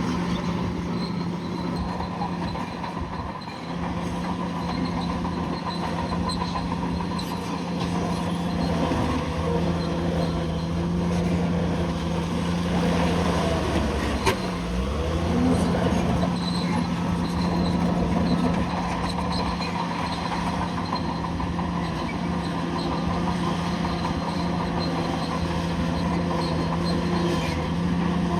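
Bulldozer's diesel engine running steadily. Its note dips briefly and recovers a few times, most deeply about halfway through, just after a single sharp knock.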